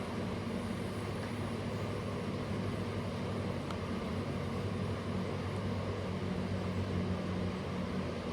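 An engine running steadily, a low even drone with a constant hum.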